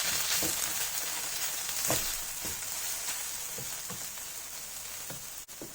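Onions, garlic, chili and tomato sauce sizzling in oil in a pan over low heat, the hiss slowly getting quieter, with a utensil knocking and scraping against the pan about eight times as the mixture is stirred.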